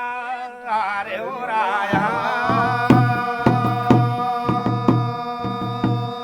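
Garhwali jagar folk music: a man's singing voice for the first second or so, then a long held instrumental note over drum beats about twice a second.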